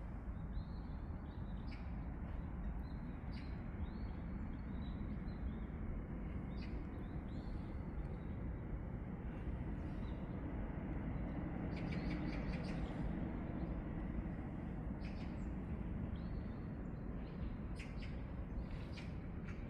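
Small birds chirping: runs of short, high, repeated notes, with a few sharper chips from about twelve seconds in. Underneath is a steady low background rumble.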